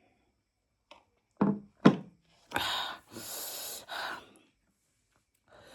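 A person reacting to very spicy chili-laden meat: two short, sharp voice-like gasps, then hissing breaths sucked in and blown out through the mouth in three pulses to cool the burn.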